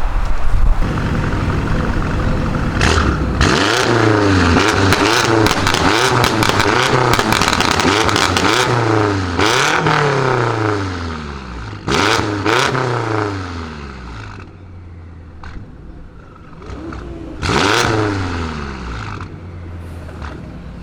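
Tuned BMW M5 F90's twin-turbo V8 revved hard again and again through an aftermarket exhaust, pitch rising and falling with each blip and sharp cracks and pops between them. It settles to a lower, steady idle about two-thirds through, then gets one more rev near the end.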